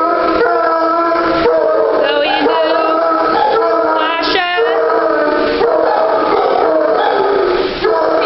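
Several kennel dogs howling together in long, overlapping, held notes at different pitches, broken by short yips and whines.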